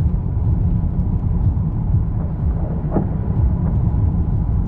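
Steady low rumble of wind buffeting and road noise inside a car caught in a tornado, with one brief higher sound about three seconds in.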